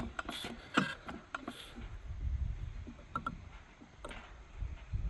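A small single-cylinder engine, built after Henry Ford's 1893 engine, runs unevenly in low, irregular thumps with a few sharp clicks. Its setting is touchy: half a notch makes the difference.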